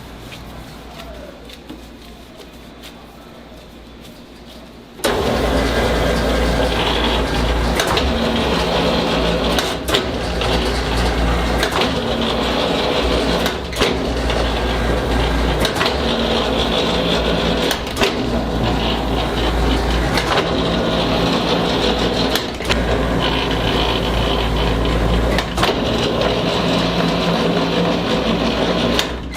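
Dough sheeter's motor switching on about five seconds in and running loudly and steadily while it rolls out laminated pastry dough. A short knock comes roughly every two seconds as the rollers reverse direction for each pass.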